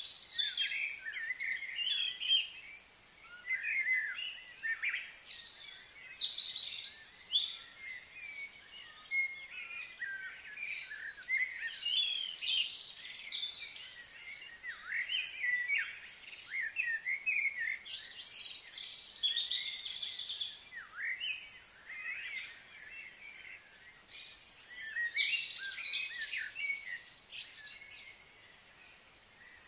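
Birds chirping and calling: many short, quick, overlapping chirps that keep going the whole time, over a faint steady background hiss.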